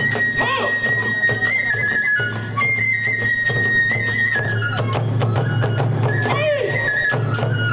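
Kagura hayashi music: a bamboo transverse flute holds a high melody in long notes that step between a few pitches, over quick, regular strokes of drum and small hand cymbals.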